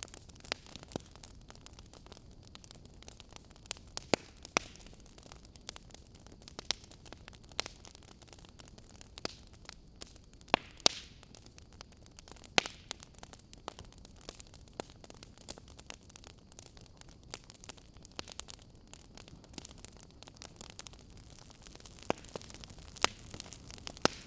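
Fire burning in an open fireplace, crackling: irregular sharp pops over a steady soft hiss, with a few louder pops scattered through.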